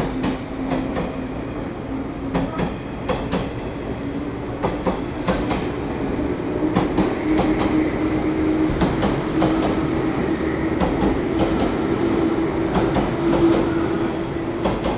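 JR 185 series electric train pulling out of the station. Its wheels click over rail joints and points, and a motor hum slowly rises in pitch as it gathers speed.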